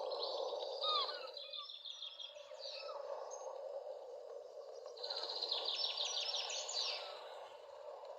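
Birds chirping and singing over a steady background hiss, with a quick trill of rapid high notes about five seconds in.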